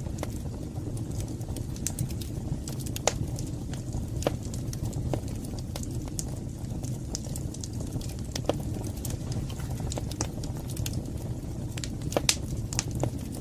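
Wood fire burning in a fireplace: a steady low rumble of flames under irregular sharp crackles and pops, the loudest pops about twelve seconds in.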